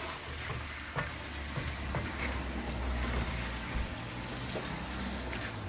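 Chicken liver masala sizzling in a karahi as a wooden spatula stirs and turns it, with a few light clicks of the spatula against the pan over a low steady hum.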